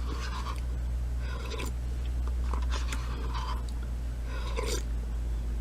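A person eating tomato soup with raw egg: several short bouts of slurping and chewing, with a few sharp clicks, over a steady low hum.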